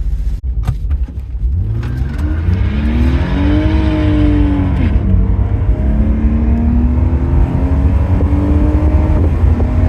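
BMW 330Ci's 3.0-litre straight-six accelerating through the gears: engine pitch climbs for about three seconds, drops at an upshift about five seconds in, then climbs again before a second shift near the end, over a heavy low road rumble. A few clicks in the first second.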